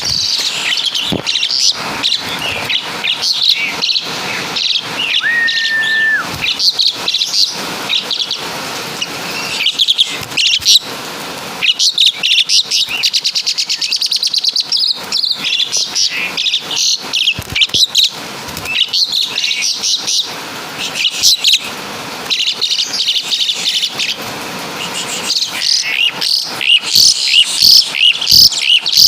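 Javan pied starling singing a long, varied run of loud chattering calls and whistles, with one held whistle about five seconds in and a fast rattling trill near the middle. Its song is said to carry imitated woodpecker (caladi) and kapas tembak calls.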